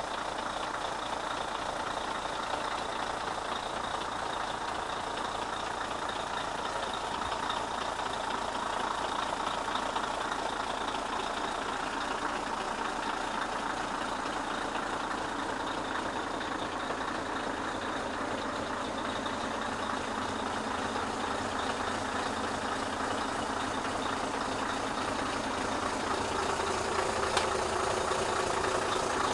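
1995 Scania R143 450's 14-litre V8 diesel engine idling steadily, a little louder over the last few seconds.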